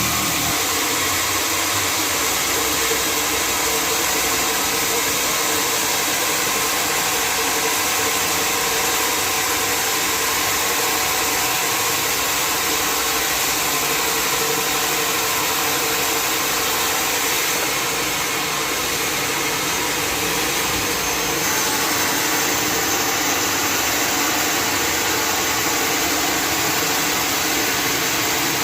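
Sawmill running: a loud, steady hiss with a hum underneath, dipping slightly about eighteen seconds in.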